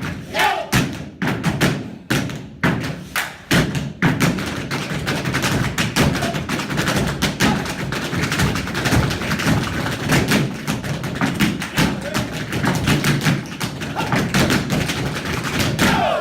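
Loud tap dancing: a rapid stream of heel and toe strikes on a hard floor, separate accented stomps for the first few seconds, then a dense, fast, continuous flurry of taps.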